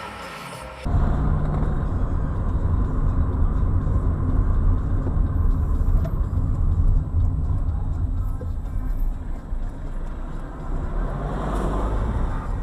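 Car interior road and engine noise picked up by a dash cam: a steady low rumble of a car driving, starting abruptly about a second in as the intro music cuts off.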